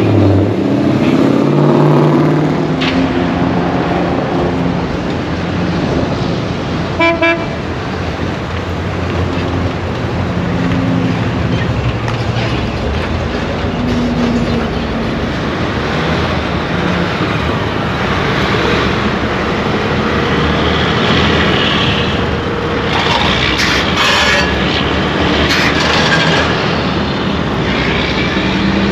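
Car engines running at low revs, with one short car horn toot about seven seconds in.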